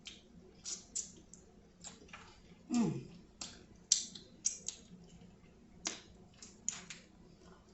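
Close-miked chewing of a last mouthful of seafood boil: irregular wet smacks and clicks of the mouth. About three seconds in comes a short hum of enjoyment falling in pitch.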